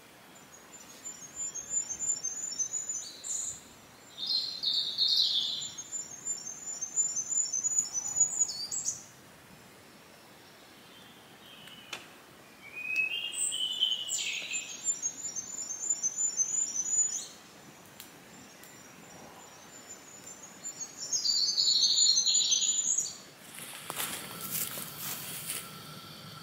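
A songbird singing in several separate phrases, each a run of rapid high repeated notes ending in a falling flourish, with quiet gaps between. Near the end a short spell of hiss takes over.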